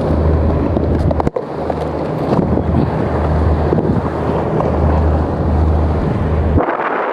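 Strong wind buffeting the microphone, a loud steady rumble with a noisy rush over it. The rumble breaks off for a moment about a second in and stops shortly before the end.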